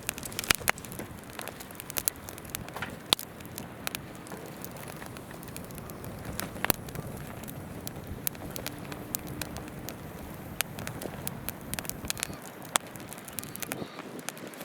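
Wood campfire crackling with frequent sharp, irregular pops, over the steady rush of a babbling river.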